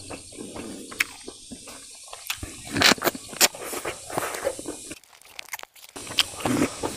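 Close-miked chewing of fried rice and meat: wet mouth clicks and lip smacks with a few louder crunches, dropping out briefly about five seconds in.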